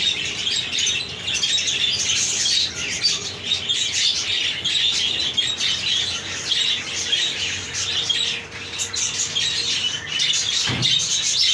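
A colony of budgerigars chattering and squawking together in a continuous dense warble, with a brief low thud near the end.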